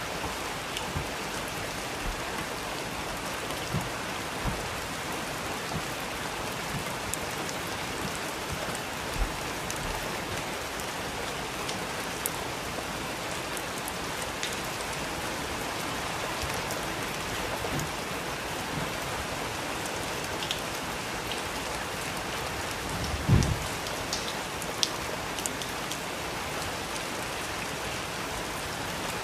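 Steady rain falling, with scattered individual drops ticking through it. One low thump sounds about 23 seconds in.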